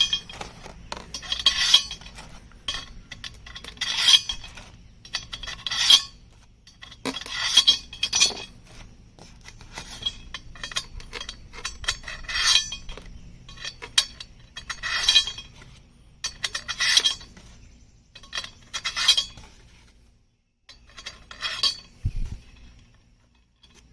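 Small metal hardware clinking and scraping as pieces are slid one by one onto the frame of a portable chainsaw mill, in a series of short metallic clatters every second or two.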